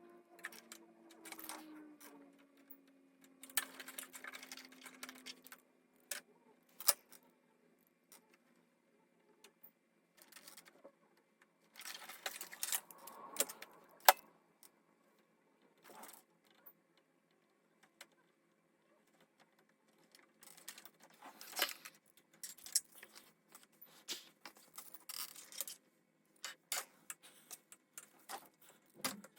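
Intermittent handling noise: short spells of rustling and light clattering, broken by small clicks, with one sharper click about halfway through.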